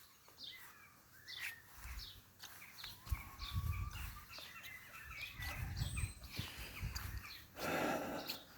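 Small garden birds chirping and twittering in short scattered calls, with a few low bumps and a brief rustle near the end.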